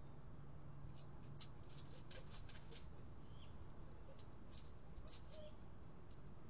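Small birds at a feeder: a rapid, irregular scatter of short, high chips and clicks with a few brief call notes. A faint low hum runs under it for the first couple of seconds.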